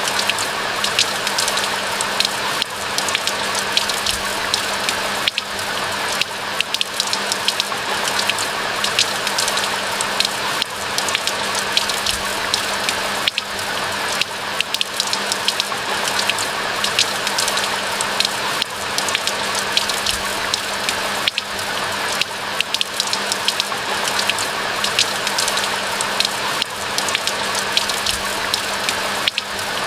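Steady rain: a dense, even hiss of falling rain with many close, sharp drop ticks.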